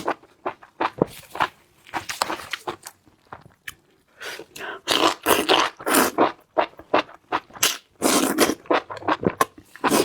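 A person eating close to the microphone: chewing and biting in short irregular bursts with sharp clicks between them.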